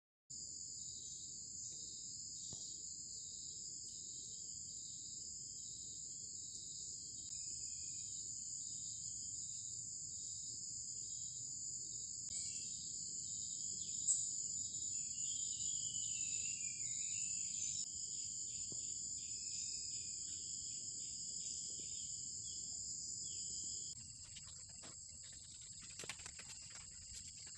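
Insects chirring in a steady, high-pitched drone, with a pulsing chirp beneath it. The drone drops slightly near the end, where a few light rustling clicks come in.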